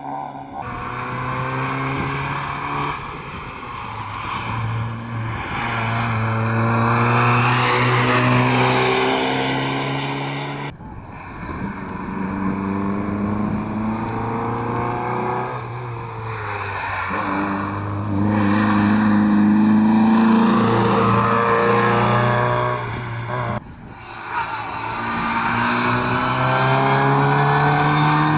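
Rally cars' engines pulling hard up through the gears, the pitch climbing in steps and dropping as they lift off, in three separate passes cut together, the cuts about eleven and twenty-four seconds in.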